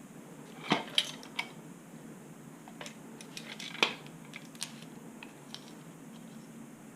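Scattered light clicks and clinks of small hard objects being handled, over quiet room tone.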